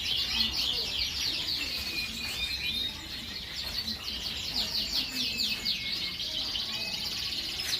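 Domestic canary singing: long fast trills of rapidly repeated sweeping notes, broken by a few short whistled notes.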